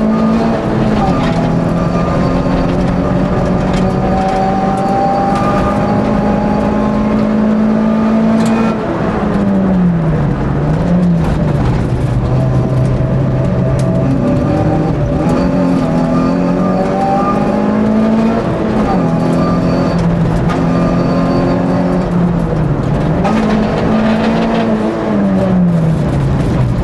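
Race car's engine heard from inside the cabin, running hard on a hillclimb run. Its pitch drops steeply twice, about a third of the way in and shortly before the end, and climbs again between.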